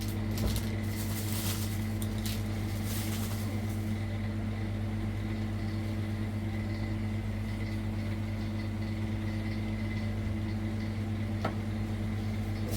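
Steady low mechanical hum from a running motor or engine, with bursts of rustling hiss in the first few seconds and a single click near the end.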